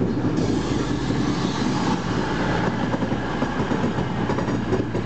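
Virgin Trains passenger train running close past along the platform: a steady rumble of wheels on rail, with a rise of hiss about half a second in that eases off after about two seconds.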